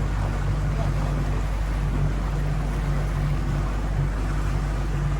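Motorboat under way: a steady low engine drone under a constant rush of wind and water noise, with wind buffeting the microphone.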